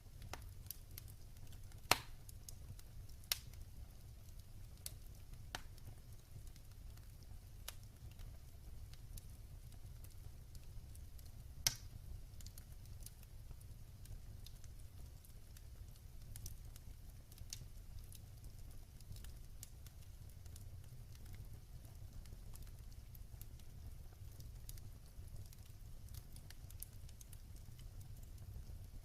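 Wood fire crackling in a fireplace: scattered small ticks and a few sharp pops, the loudest about two seconds in and again near twelve seconds, over a steady low rumble of the burning fire.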